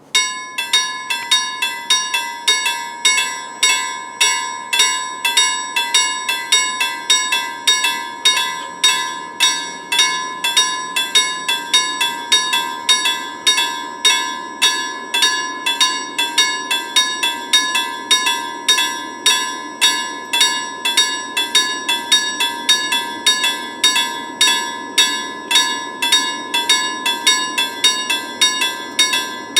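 Railway level crossing warning bell starting suddenly and striking steadily at about two strikes a second, each strike ringing on with a clear bell tone. It signals that a train is approaching the crossing.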